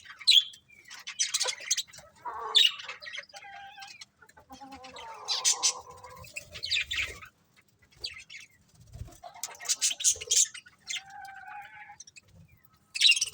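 A flock of budgerigars chirping in short, irregular bursts of high calls, with a stretch of lower chattering in the middle.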